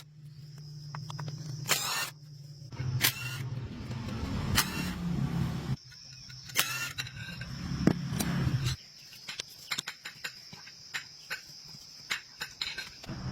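A steady low mechanical hum with sharp clicks and knocks over it; the hum cuts off suddenly about nine seconds in, leaving scattered clicks.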